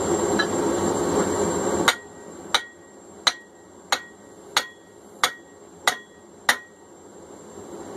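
Blacksmith's hammer striking a steel drift being driven into the punched eye of a hot hammer head, eight ringing blows at an even pace of about three every two seconds. Before them a steady rushing noise cuts off suddenly about two seconds in.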